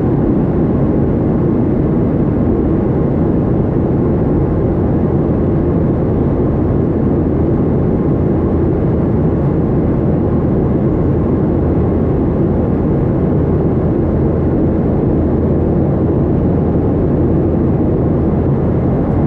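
Boeing 737-800 jet airliner noise, a steady, even din with no change in pitch or level.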